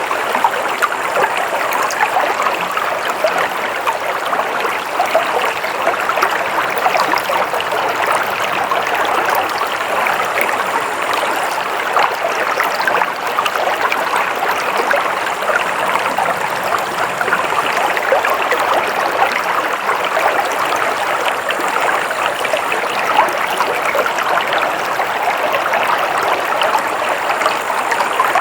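Flowing stream water, a steady rushing and babbling that keeps an even level throughout.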